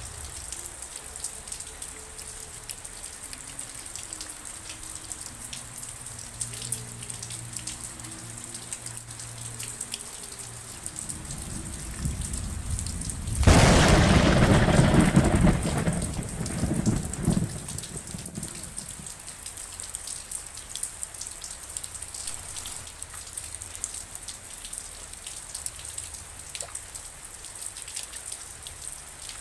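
Steady rain falling, with many individual drops striking close by. About 13 seconds in a loud thunderclap breaks suddenly and rumbles away over the next four or five seconds.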